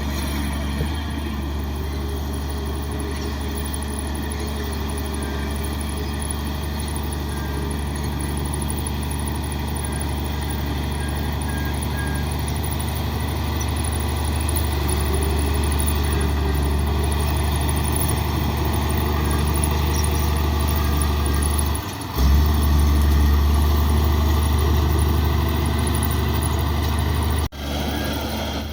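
Komatsu D58 bulldozer's diesel engine running steadily with a deep drone, growing louder about two-thirds of the way through, with two brief breaks in the sound near the end.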